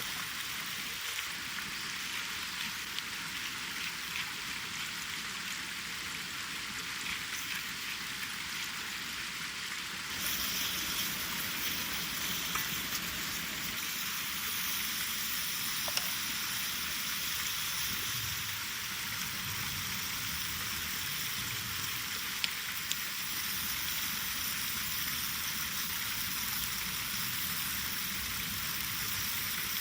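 Food sizzling in a pan over a campfire: a steady frying hiss with a few small pops, getting a little louder about ten seconds in.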